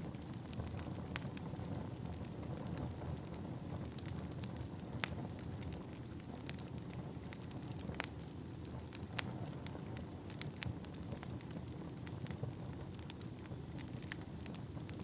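Wood fire burning in a fireplace: a steady low rumble of flames with irregular sharp crackles and pops from the burning logs, a few of them louder snaps.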